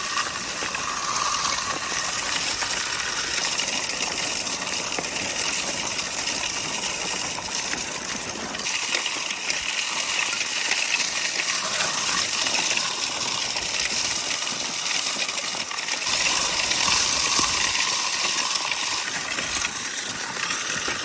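A 100-pound salt spreader throwing rock salt across the lot, a steady hiss of scattering grains.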